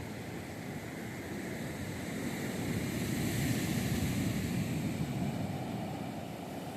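Sea surf on a beach: a wave washes in, its rush of water building to a peak a little past the middle and then easing off.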